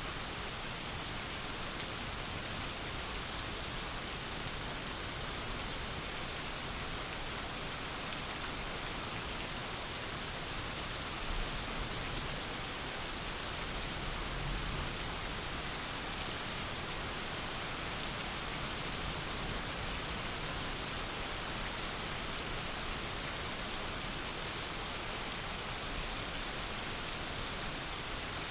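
Steady rain falling in a thunderstorm, an even hiss without a break. A faint low rumble of thunder swells about halfway through.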